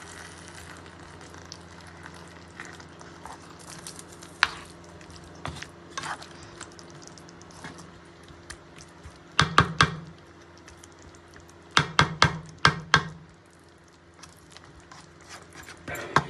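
Metal spoon clinking and scraping against a cooking pot, with scattered single clicks and two runs of quick sharp taps in the second half, over a steady low kitchen hum.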